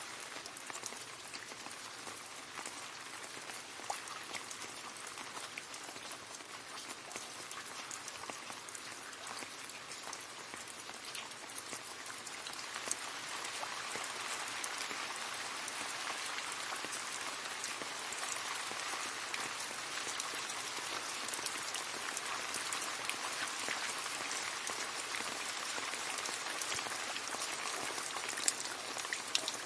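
Steady rain pattering and splashing into a puddle, a dense hiss of countless drops with individual splashes standing out. The rain gets somewhat heavier about halfway through.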